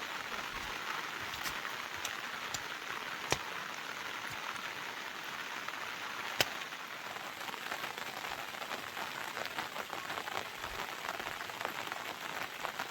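Heavy rain falling steadily, with scattered sharp drop ticks and two louder clicks, about three and six seconds in.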